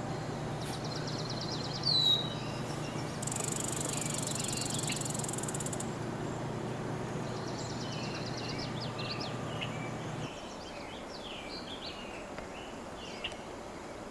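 Cedar waxwings giving high, thin, trilled calls, with one louder downward chirp about two seconds in and many short calls in the second half. A steady low hum underneath stops about ten seconds in.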